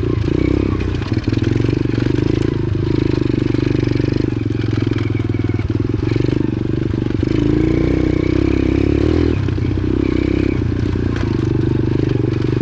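125cc pit bike's single-cylinder four-stroke engine running under load on a dirt trail, its revs rising and falling, with a clear rise in pitch partway through.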